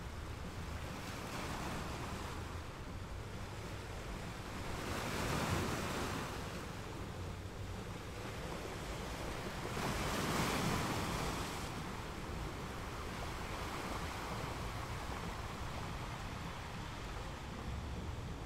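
Choppy sea water washing and splashing, with wind on the microphone; the wash swells twice, about five and ten seconds in.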